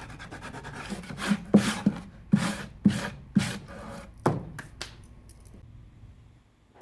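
Sandpaper rubbing on wood by hand: quick, even strokes at first, then about seven slower, louder strokes, stopping about five seconds in.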